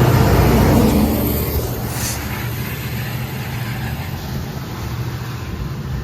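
Diesel commuter train running at the station, a loud low engine drone that fades over the first second or so, leaving a steadier, quieter rumble. A short hiss comes about two seconds in.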